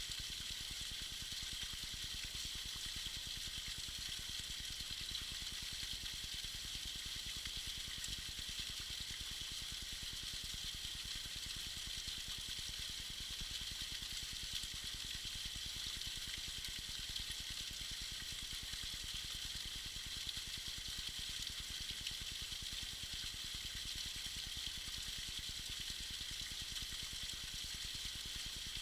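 Small waterfall splashing and trickling steadily, a constant high hiss of falling water.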